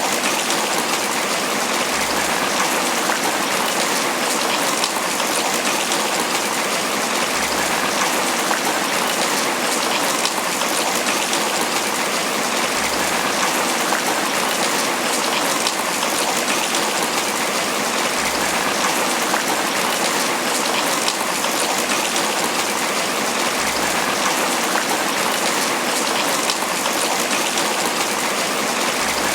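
Steady tropical rain falling on banana leaves: a dense, even patter of drops on the leaves.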